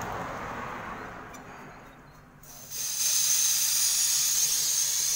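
Pressurised gas hissing loudly and steadily from a valve or hose, switched on suddenly a little over two and a half seconds in after a softer rushing sound.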